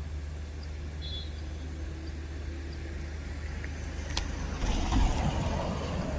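A motor vehicle's engine running with a steady low hum. There is a sharp click about four seconds in, then a louder noisy rush that swells near the end.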